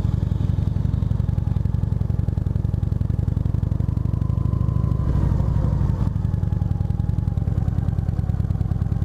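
Motorcycle engine idling steadily. Midway another vehicle grows louder and passes, its pitch rising then falling, and fades after about six seconds.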